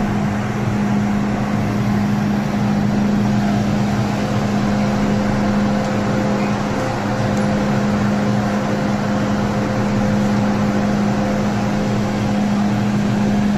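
Cabin noise of an MTR Tsuen Wan Line M-train underway: a steady rumble with a constant low hum.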